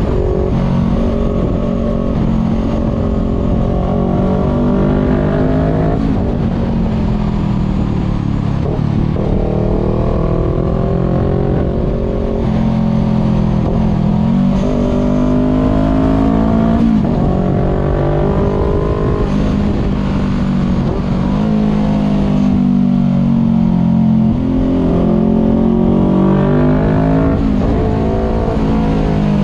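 Voge 500R's parallel-twin engine through a full exhaust with the dB killer removed, recorded onboard while riding: the engine pitch climbs under throttle and drops sharply again and again as the rider shifts gears and rolls on and off the throttle.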